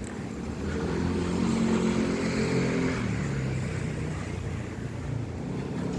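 A passing motor vehicle's engine hum, growing louder about a second in and easing off after about three seconds.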